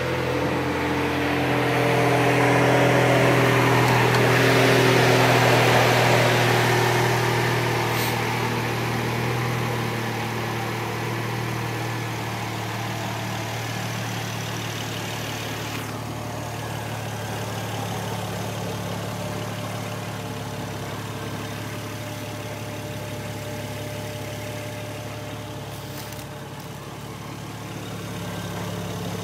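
BMW engine with an aftermarket cone intake filter idling steadily; during the first several seconds a higher tone in the sound slides down in pitch, and it is loudest about five seconds in.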